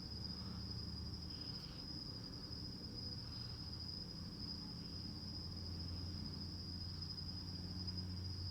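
Crickets trilling steadily in a continuous high chirr, over a low steady rumble that grows a little louder near the end.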